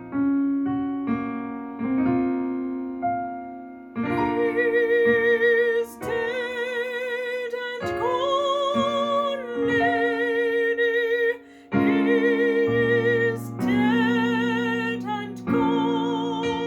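Classical, operatic-style singing with a wide vibrato over piano accompaniment. The piano plays alone at first, and the voice enters about four seconds in with long held notes.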